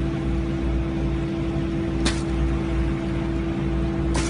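Engine running steadily with a constant hum and a pulsing low rumble. Two brief sharp noises cut in, about two seconds in and near the end.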